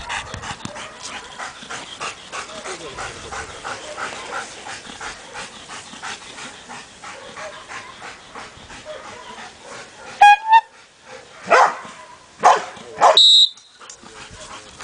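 Dog barking steadily and rapidly, about three barks a second, the bark-and-hold on a found decoy in a Mondioring search exercise. About ten seconds in, the barking breaks off with a short high-pitched sound, followed by a few louder single barks.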